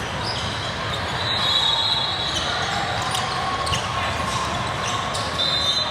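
A basketball being dribbled on a gym floor during a game, the bounces sounding as sharp strikes over a steady murmur of voices. Two sustained high squeals come about a second in and again near the end.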